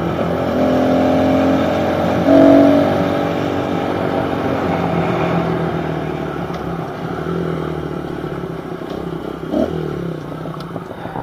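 Small pit bike engine running, with a brief rev about two seconds in, then settling to a lower pitch and slowly fading as the bike slows.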